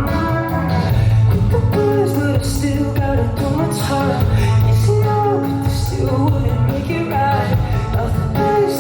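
Live pop-rock band playing, with regular drum hits and a steady bass under a melody.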